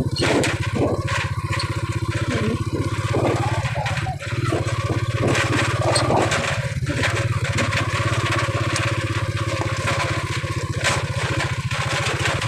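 Small motorcycle-type engine running steadily with a fast even throb, with irregular rattling and knocking over it, as of a vehicle jolting over rough ground.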